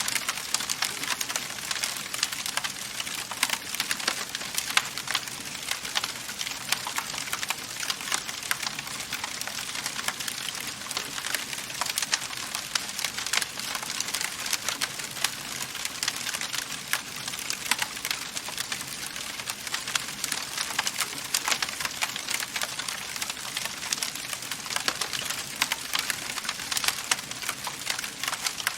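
Wood fire burning in a fireplace, with a steady hiss and dense, irregular crackles and snaps of burning wood.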